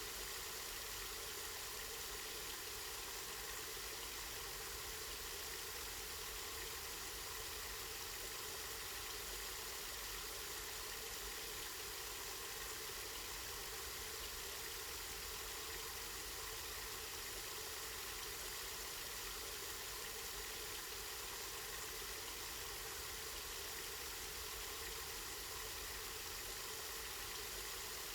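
Water running steadily from a spring into a pool, a continuous even splashing with no breaks or changes.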